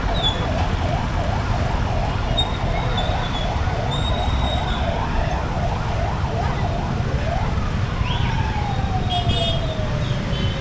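An emergency vehicle siren in a fast warbling yelp, about four or five wavers a second, for the first half. It then sweeps down in one long falling tone. A steady low rumble of traffic and engine runs underneath.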